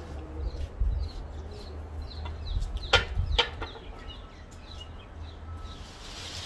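Birds chirping in short, repeated calls, with two sharp knocks close together about three seconds in, over a steady low rumble.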